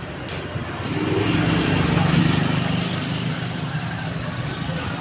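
An engine running steadily, its hum growing louder over the first two seconds and then easing slightly, over a steady rushing noise.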